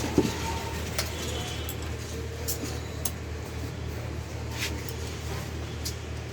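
Scattered light clinks and taps of small hard objects, about half a dozen, over a steady low hum.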